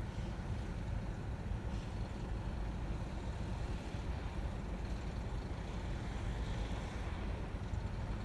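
Steady low engine rumble of a vehicle idling at a standstill, heard from inside a car's cabin.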